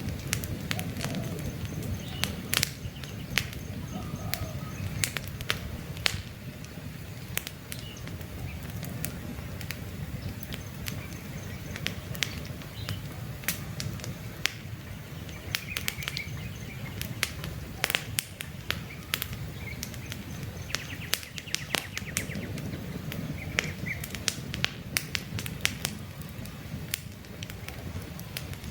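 Wood campfire crackling, with frequent sharp pops and snaps over a steady low rush of flames. Birds chirp faintly in the background.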